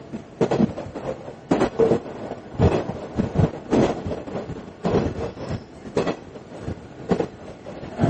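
Train wheels clattering over rail joints, heard from inside a JR KiHa 110 series diesel railcar under way: sharp knocks, often in pairs, about once a second over a steady running rumble.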